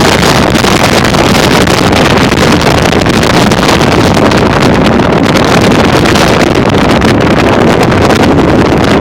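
Strong gusting wind, 40 to 50 mph gusting to 60, blasting the microphone: a loud, steady rush of noise with no letup.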